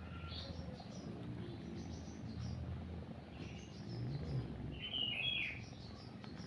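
Small birds chirping in short scattered calls, with the loudest burst of chirps about five seconds in, over a cat's low, steady purring.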